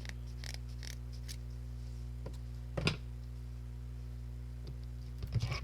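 Small clicks and knocks of craft materials being handled on a work surface, with one sharper knock about three seconds in and a short cluster near the end, over a steady electrical hum.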